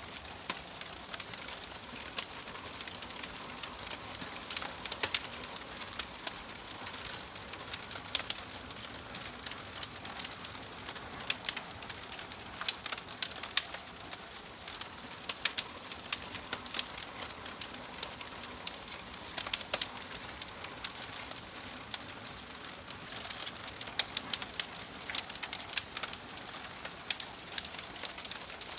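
Wood fire crackling in a fireplace: a soft steady hiss with frequent sharp, irregular pops and snaps.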